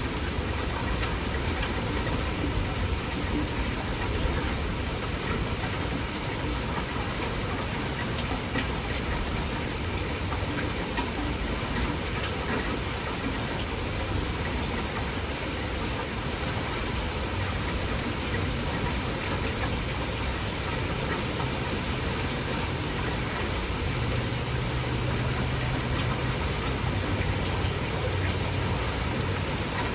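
Heavy rain falling steadily, a dense even hiss with scattered drop ticks. A low steady hum joins about three-quarters of the way through.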